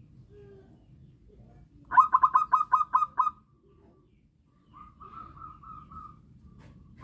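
Zebra dove (perkutut) cooing: a loud rapid run of about eight short coos about two seconds in, then a softer run of about six coos.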